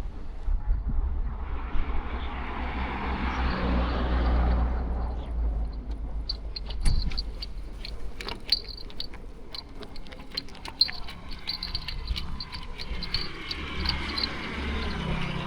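Street traffic: a car passes close by about two seconds in, followed by scattered clicks and ticks, and another vehicle approaching near the end.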